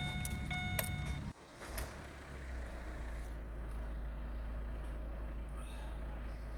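Chevrolet Captiva's 2.0 VCDi (Z20S1) four-cylinder diesel engine running, with a steady high beeping tone over it for the first second. After a sudden brief dip in the sound, the engine settles into a steady idle.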